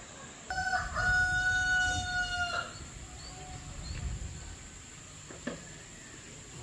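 A rooster crowing: one long call of about two seconds.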